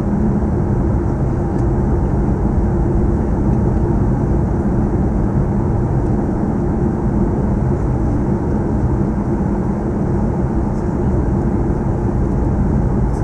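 Steady cabin drone of an Airbus A340-300 in flight during its descent: engine hum and rushing airflow, with a few steady low tones running underneath.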